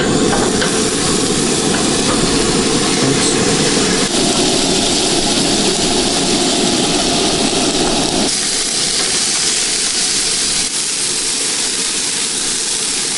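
Gas camp stove burner running with a steady roaring hiss as burgers fry on it. The sound shifts abruptly about four and again about eight seconds in.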